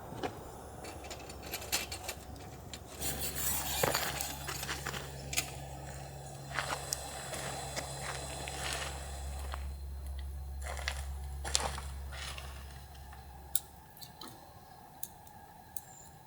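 Scattered light clicks and clatters of small items being handled, over a low steady hum that stops shortly before the end.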